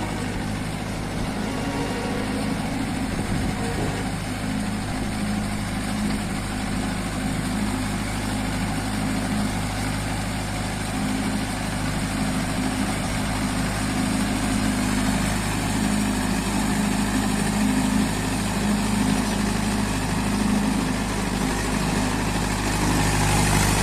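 Mahindra Yuvo 585 Tech+ tractor's diesel engine running steadily, growing a little louder near the end.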